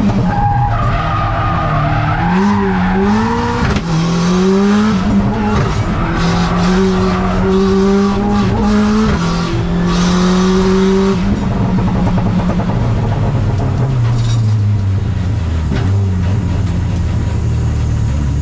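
Subaru Impreza rally car's flat-four engine heard from inside the cabin at full race pace. Its pitch climbs and drops back at each gear change, and about eleven seconds in it settles to lower, steadier revs as the car slows.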